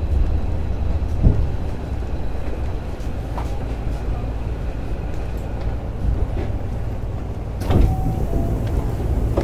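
Hankyu 7000 series electric train running steadily, heard from inside the passenger car: a continuous low rumble of wheels on rail, with a sharper knock from the track about a second in and another near the end.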